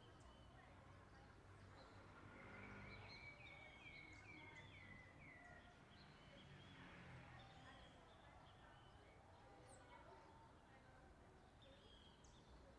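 Faint birdsong: one bird gives a quick run of six or seven short, falling chirps a couple of seconds in, and other birds call sparsely throughout over a low background hum.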